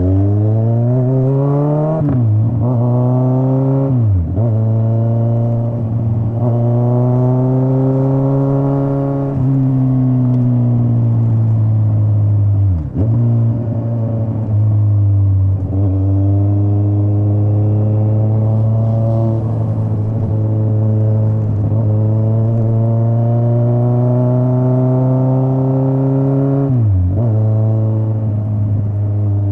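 Straight-piped Kawasaki Z900's inline-four engine under way: it pulls up through the revs with quick drops in pitch at gear changes about two and four seconds in, eases off, shifts again near the middle, then holds fairly steady revs with slow rises before another shift near the end.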